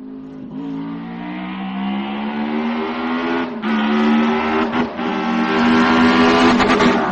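Engine sound revving up slowly, rising a little in pitch and growing steadily louder.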